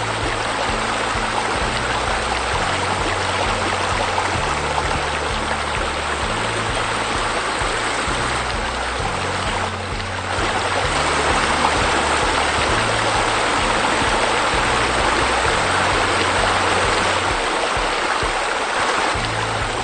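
Steady rush of falling water, like a waterfall, over background music with slow, held low chords. The water sound dips briefly about halfway through, then comes back a little louder.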